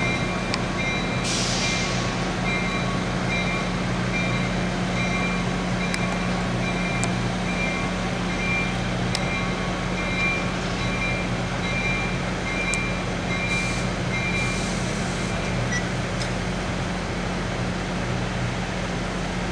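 Diesel locomotive of a MARC commuter train idling at a station with a steady low hum. Over it a repeated high electronic beep, about two a second, sounds through most of the stretch and stops about three-quarters of the way through.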